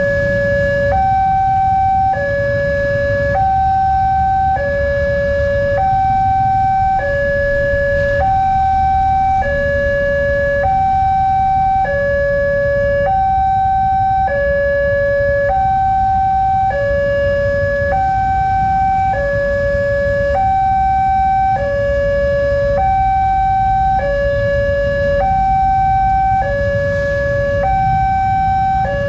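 Railway level-crossing warning siren sounding a hi-lo two-tone alarm, alternating between a lower and a higher tone about every second, signalling that a train is approaching, over a steady low rumble.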